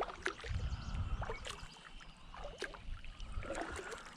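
Paddle strokes in the water, a splash and drip roughly once a second, over a low rumble.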